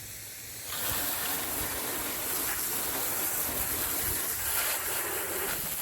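Garden hose spraying a fine mist of water onto the lawn tractor's engine under the hood: a steady hiss that starts about a second in.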